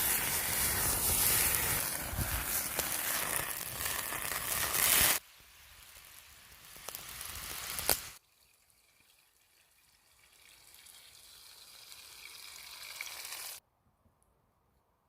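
Salmon sizzling in a pan over a campfire: a loud frying hiss for about five seconds, then quieter stretches of sizzling broken by abrupt cuts, ending in near silence.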